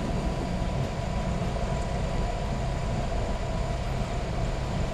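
Steady rumble and roar inside a Boeing 737 MAX 8 cockpit during the takeoff roll, with its CFM LEAP-1B engines at takeoff thrust. The level holds even throughout, and a faint steady tone sits above the rumble.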